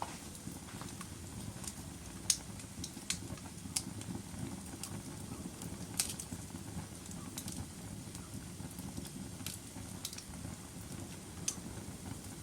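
Wood fire of burning logs in a fireplace: a steady low rumble of flames with irregular sharp crackles and pops, the loudest about two seconds in.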